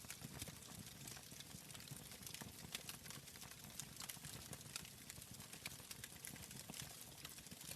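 Wood fire crackling in a fireplace: a steady soft hiss and low rumble with frequent, irregular sharp pops and snaps.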